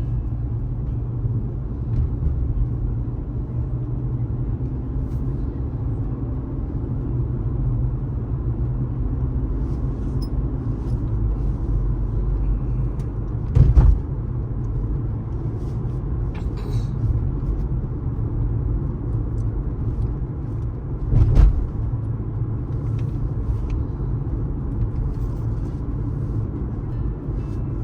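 A car driving at speed with a steady low road rumble, broken twice by a short sharp thump, about halfway through and again several seconds later.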